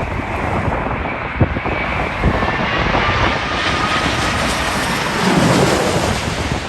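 Jet airliner coming in to land, passing close by: engine noise swells to its loudest about five seconds in, with a whine that falls gently in pitch as it goes over. Wind buffets the microphone throughout.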